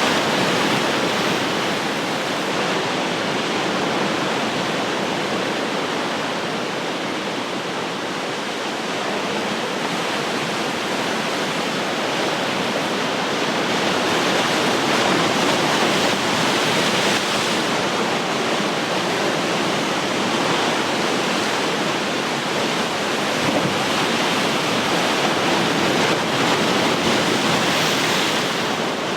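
Ocean surf: a continuous wash of breaking waves, swelling and easing every several seconds.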